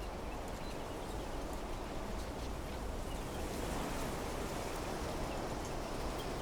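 Wind blowing steadily through trees, swelling a little midway, with a few faint, short bird chirps.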